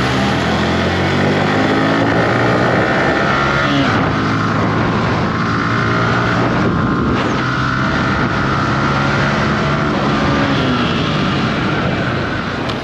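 Yamaha R15 V3's single-cylinder engine heard from the rider's seat, accelerating hard through the gears, the pitch climbing and dropping back at each upshift, with wind rushing over the microphone.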